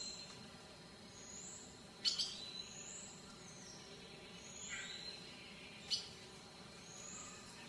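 Small birds chirping: short high arching calls repeated about every second and a half over a soft outdoor background, with two sharp clicks, about two seconds in and near six seconds, the loudest sounds.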